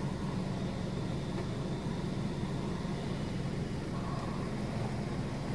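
Automatic car wash machine working its way along the car, its water spray hissing steadily on the body as heard from inside the car, over a steady low hum.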